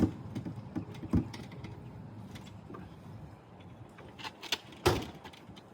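A few scattered knocks and clunks over a low steady rumble, four sharp ones spread across several seconds.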